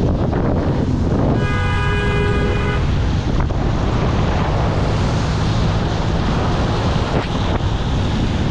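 Off-road jeep driving on a rough mountain track: steady engine and road rumble with wind buffeting the microphone. About a second and a half in, a horn sounds once, held for about a second and a half.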